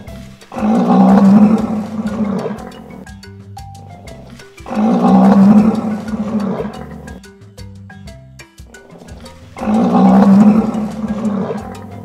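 Rhinoceros call sound effect: a loud, low call about two seconds long, heard three times at intervals of about four and a half seconds, over light background music with plucked, mallet-like notes.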